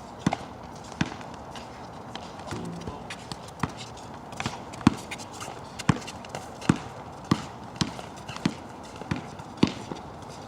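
A basketball being dribbled on hard ground: sharp single bounces, a few at first, then a steady rhythm of about one bounce every two-thirds of a second.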